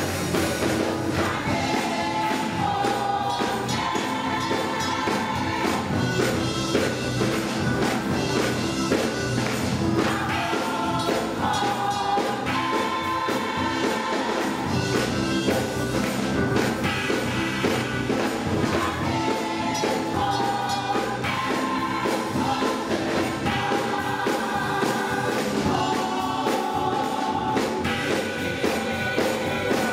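Church gospel choir singing together over instrumental accompaniment with a steady rhythmic beat.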